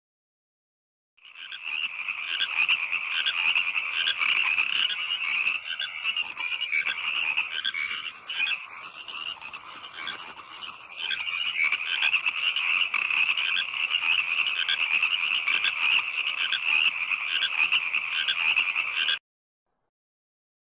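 Frog croaking: a dense run of rapid, pulsing calls that starts about a second in, drops for a few seconds in the middle, then resumes and stops suddenly near the end.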